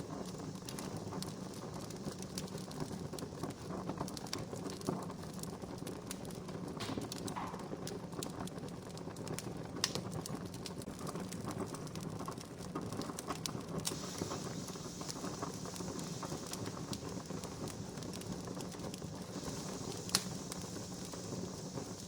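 Wood campfire crackling: irregular sharp pops and snaps over a steady hiss, with a few louder pops about five, ten and twenty seconds in.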